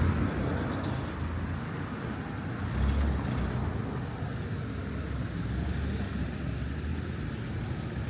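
Low, steady rumble of street traffic, swelling briefly about three seconds in as a vehicle passes.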